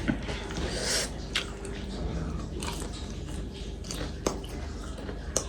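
Close-up chewing and biting of food during a mukbang, with several sharp clicks scattered through.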